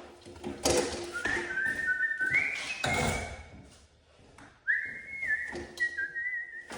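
A person whistling a short tune in two phrases of held, stepping notes, with several sharp knocks and clanks of work going on around it.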